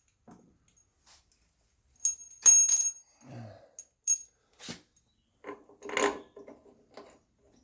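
Metal tools and parts being handled: a short ringing metallic clatter about two seconds in, then scattered knocks and a cluster of duller clunks.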